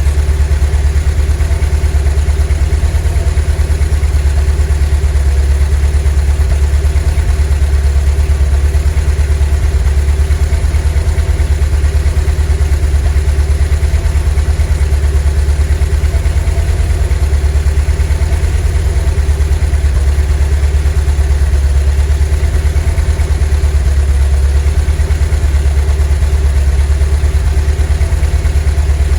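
VW T3 bus's 2.1-litre WBX water-cooled flat-four engine running at a steady speed, a deep even throb with no change in revs.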